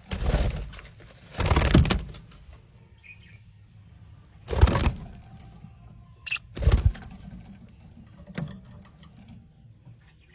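A small bird, a lovebird, flapping its wings in four short bursts, with faint chirps and light clicks between them.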